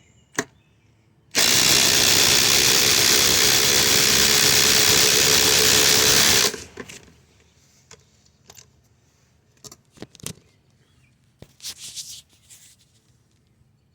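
Cordless impact driver hammering a 5-inch ledger screw home: a loud, steady rattle that starts about a second in, runs about five seconds and cuts off suddenly. A few light knocks follow.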